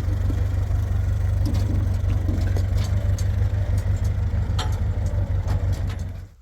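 An engine running steadily at idle with a deep, even rumble and a few light clicks, cut off suddenly near the end.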